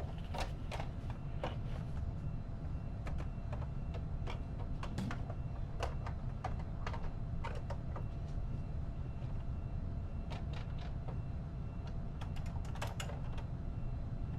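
Irregular light clicks and taps, a few every second, over a steady low hum.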